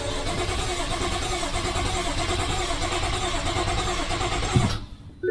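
BMW 535i's N55 turbocharged straight-six engine running, heard from inside the cabin. It runs steadily, then a low thump comes about four and a half seconds in and the sound stops abruptly.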